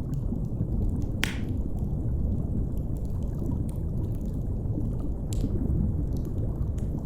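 Underwater ambience: a steady deep rumble and wash of water, with a few sharp crackles of a wood fire, the clearest about a second in and another about five seconds in.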